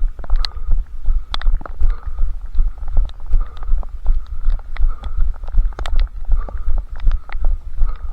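Running footfalls thudding at about three strides a second, heard as a low, deep thump through a head-strapped camera, with scattered light ticks and clicks between them.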